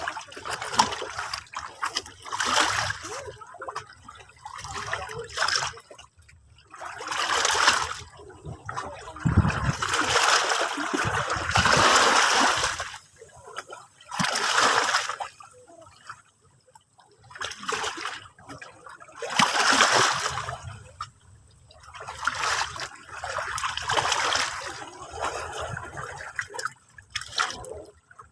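Sea waves washing up and breaking on the shore, a surge of hissing, splashing water every two to three seconds, some brief and some lasting a couple of seconds, fading between them.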